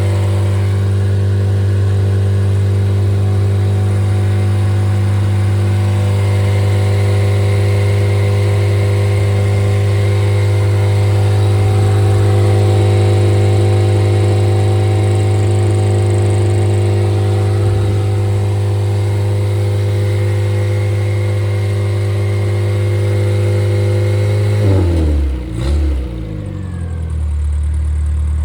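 Freshly rebuilt Triumph Spitfire 1500 inline four-cylinder engine running steadily at raised revs. About 25 seconds in, the revs fall away and it settles to idle.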